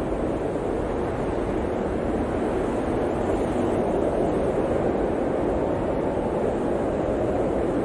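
Blizzard wind blowing steadily, a dense low rushing noise with no gusts or breaks.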